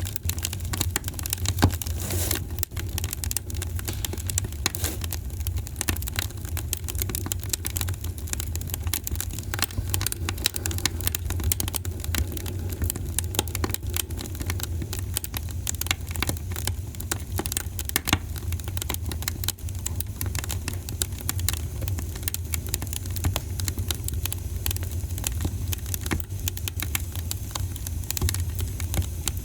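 Wood fire crackling steadily with many small pops and snaps over a constant low rumble.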